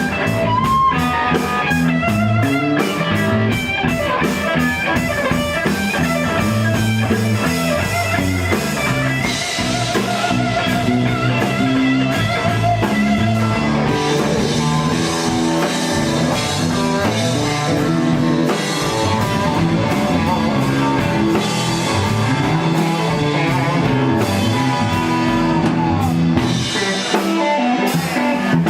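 Blues-rock band playing an instrumental passage: electric guitar soloing over bass and drum kit.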